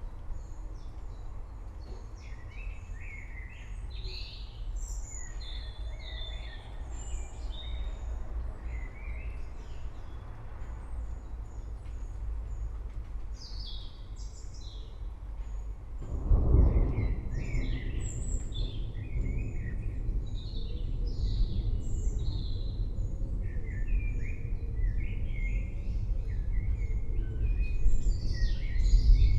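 Forest birds chirping and singing over a steady low rumble. About halfway through, distant thunder breaks in with a sudden rumble, and the rumble stays louder to the end.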